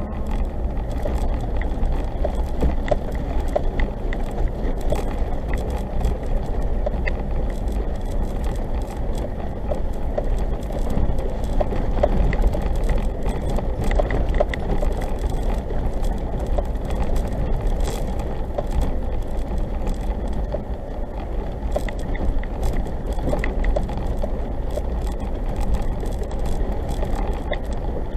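Third-generation Suzuki Jimny driving over a rough green lane, heard from inside the cabin: a steady low engine and tyre drone with frequent small rattles and clicks from the bodywork and loose items.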